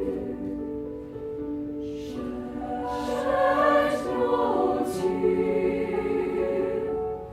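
A choir singing in parts, holding chords that shift every second or so, swelling louder a few seconds in.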